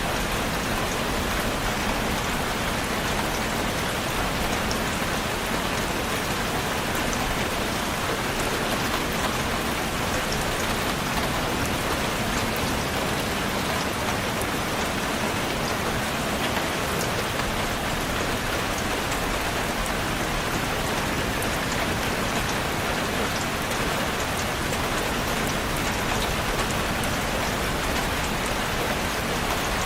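Steady rain falling: an even hiss with scattered drop ticks, holding the same level throughout.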